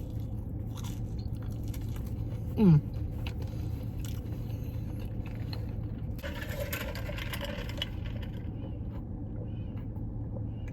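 Steady low hum inside a parked car, with a short falling 'mm' of a person eating about three seconds in, and a couple of seconds of crinkling or rustling a little past the middle.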